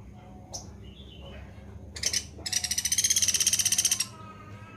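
Songbird calling: a sharp high chip about half a second in, a short burst near two seconds, then a loud, rapid, buzzy trill of fast repeated notes for about a second and a half that stops abruptly.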